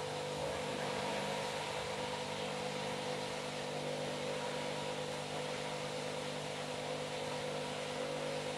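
Washing machine running at a steady speed: an even motor hum made of several steady tones over a constant whooshing noise.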